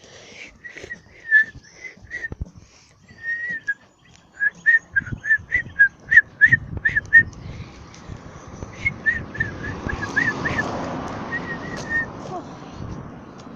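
Many small birds chirping, with rapid runs of short, high chirps and brief pauses between them. A rushing noise swells about two-thirds of the way in and fades near the end.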